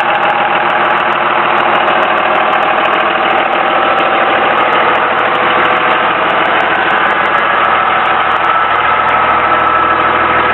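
A 2001 Dodge Ram 2500's Cummins H.O. 24-valve 5.9-litre straight-six turbo diesel idling steadily.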